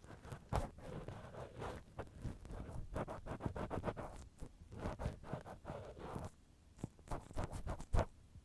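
Cotton swab rubbing and scratching right against a binaural microphone's ear, a run of short, close scratchy strokes with a few sharper clicks.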